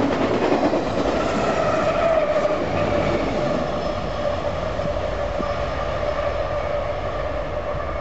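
Union Pacific freight train rolling past: a steady rumble with a steady ringing tone over it, easing off slightly near the end.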